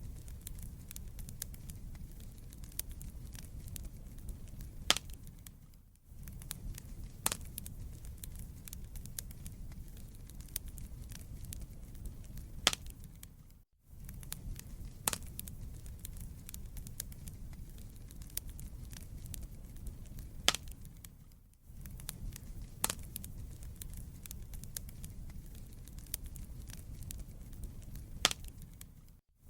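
Wood fire burning in a fireplace: a steady low rumble of flames with frequent sharp crackles and pops from the burning logs. The sound dips out briefly about every eight seconds.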